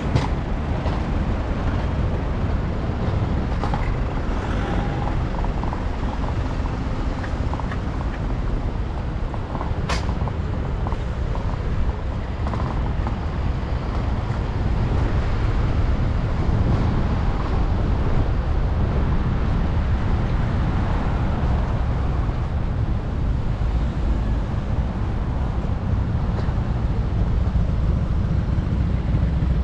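City traffic noise heard from a moving bicycle, over a steady low rumble of wind on the microphone. A sharp click about ten seconds in.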